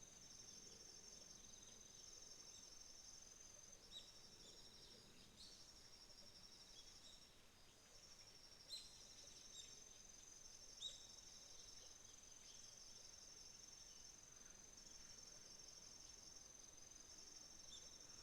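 Faint chorus of autumn crickets trilling steadily in long, fast-pulsed, high-pitched trains. A few short, sharp bird chirps break in, the loudest about nine and eleven seconds in.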